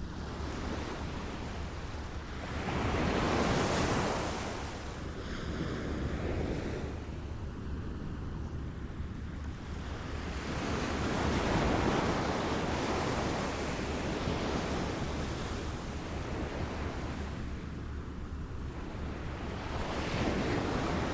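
Small waves lapping and washing ashore, the water noise swelling and easing in slow surges every several seconds, with a low rumble of wind on the microphone underneath.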